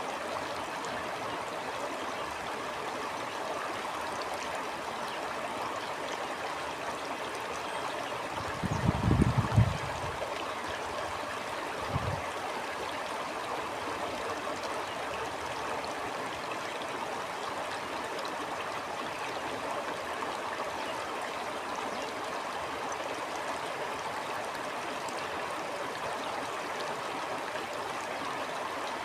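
Steady rushing and gurgling of a flowing stream. About nine seconds in, a low rumble of wind buffeting the microphone lasts about a second, and a shorter one follows a couple of seconds later.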